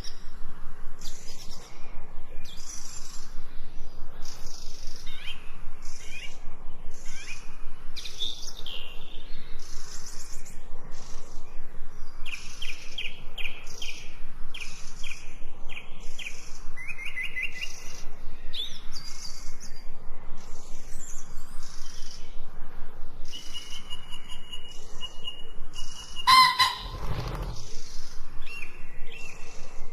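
Several songbirds chirping and trilling continuously, with quick repeated high notes and short rapid trills. Near the end one louder, lower call lasts about a second over a brief low thump.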